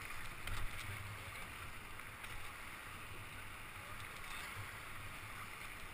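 Steady rush of river water around a whitewater raft, with a brief knock about half a second in.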